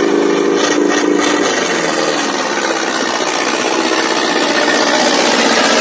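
ACE 6565 tractor engine running hard while pulling three harrows: a dense, rough mechanical noise. A steady pitched note fades out about a second and a half in, and the sound grows a little louder near the end.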